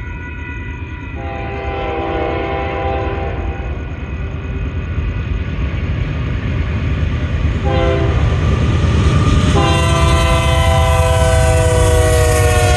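Union Pacific diesel locomotive UP 6065's multi-chime air horn sounding for the grade crossing: a long blast, a short one about eight seconds in, then a long blast held to the end. Underneath, the rumble of the approaching train grows steadily louder.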